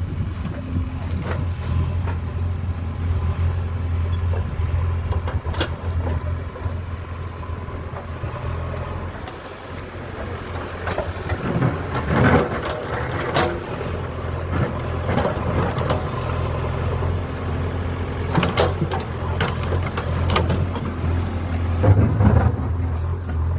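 A steady low motor hum, dropping away for a couple of seconds about halfway through and then returning, with scattered clicks and knocks over it.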